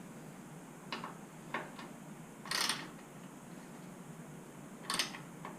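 A few separate metallic clicks and two short louder clanks of hand tools and hardware while the rear support fasteners are being tightened.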